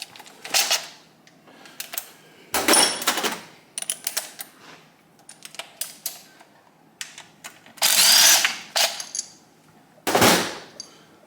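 Impact wrench running in about four short rattling bursts, loosening bolts on a Kawasaki KZ1000 engine during teardown, with small tool clicks between the bursts.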